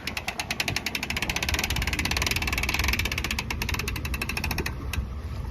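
Boat trailer hand winch ratcheting as its strap is let out: a fast, even clicking of the pawl, about ten clicks a second, that stops near the end with one last click.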